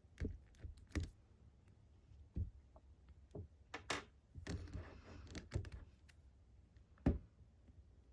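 Irregular clicks and knocks, a dozen or so, with a short rustling stretch about four and a half seconds in; the sharpest knock comes about seven seconds in.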